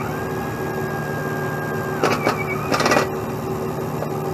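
Heavy truck engine running steadily, with a high steady whine for the first two seconds and two short harsh bursts about two and three seconds in.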